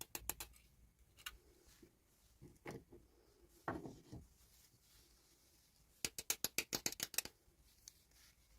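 Toy packaging being handled and opened: sharp plastic clicks come in two quick runs, a few at the very start and a rapid series of about a dozen about six seconds in, with softer rustling and handling sounds between them.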